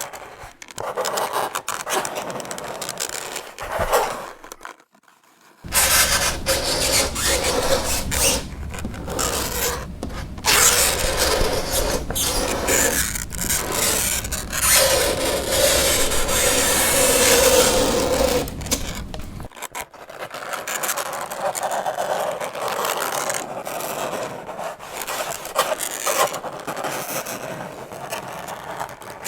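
Fingernails scraping across a chalkboard in repeated rasping strokes. There is a short silent break about five seconds in, and a steady pitched tone for a few seconds past the middle.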